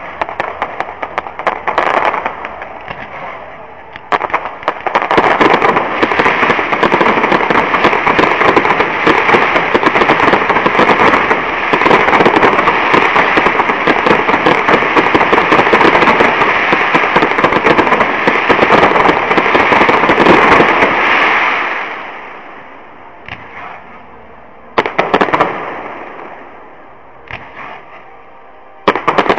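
Fireworks display: a dense, continuous run of crackling bursts that builds about four seconds in and dies away after about twenty seconds, followed by a few separate bangs near the end.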